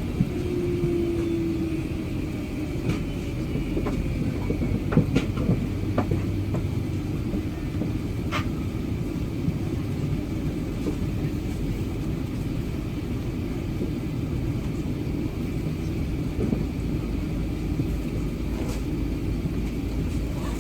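Cabin noise inside an Airbus A380-800: a steady low rumble, with a brief falling hum at the start and a few faint clicks in the first half.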